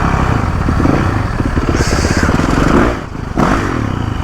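Motorcycle engine running under way, its firing pulses steady, with a brief drop about three seconds in before it picks up again.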